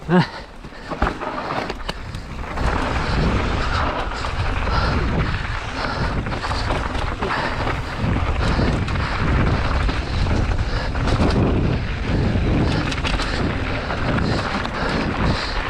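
Mountain bike riding fast downhill on a dirt trail: wind buffeting the microphone and the tyres and frame rattling and rumbling over rough ground, with one sharp loud knock right at the start.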